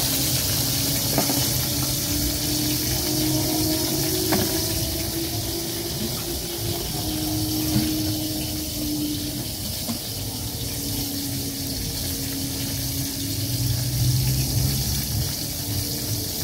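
Tempeh deep-frying in hot oil in a wok, a steady sizzle, with a low droning hum underneath.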